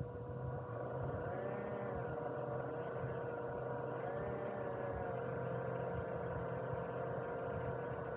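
Small electric motor whining steadily, with a second whine that rises and falls in pitch twice as the motor speeds up and slows down.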